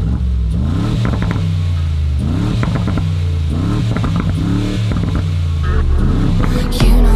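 Brabus G700 Widestar's twin-turbo V8 accelerating hard, its note climbing in pitch and dropping back several times as it works through quick upshifts, with a few sharp crackles. A loud, bass-heavy music track cuts in near the end.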